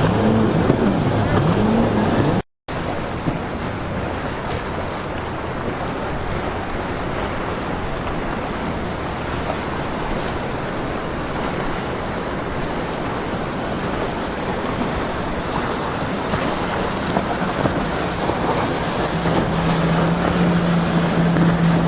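Steady wash of surf and wind with boat engine noise. In the first two seconds an engine's pitch swings up and down. The sound cuts out briefly about two and a half seconds in, and a steady low engine hum comes up near the end.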